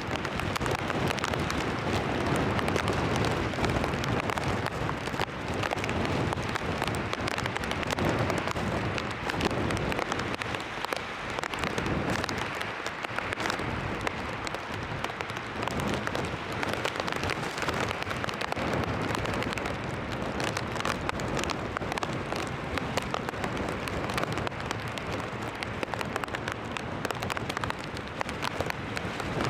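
Heavy rain in stormy weather: a steady rushing hiss with dense crackle that rises and falls in gusts.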